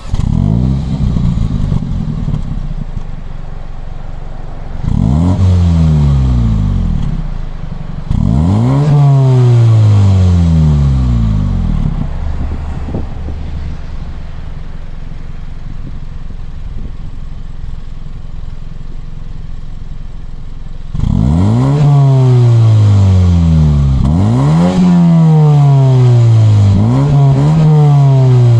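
A 2021 Mini Cooper S's turbocharged four-cylinder engine through the stock exhaust, idling and being blipped. It revs twice in the first ten seconds, the second rev longer and falling slowly back. It then idles steadily before three quick revs in a row near the end.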